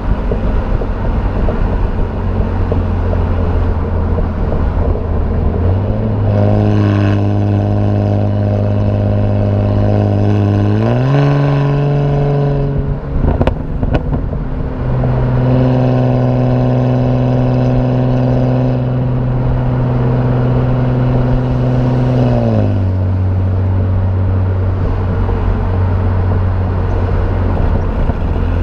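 BMW E90 328i's inline-six sounding through aftermarket headers and a performance exhaust. The engine note steps up in pitch twice and holds each level for several seconds, with a sharp click between the steps. It then drops back to the low steady note well before the end.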